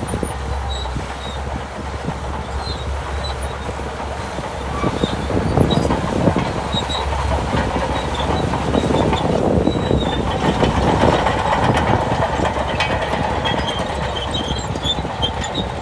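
Shantui DH17 bulldozer working: its diesel engine running with a steady low rumble under a clattering noise like crawler tracks, growing louder about five seconds in.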